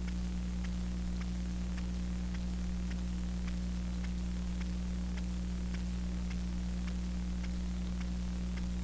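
Steady low electrical hum with hiss, and faint ticks repeating about twice a second.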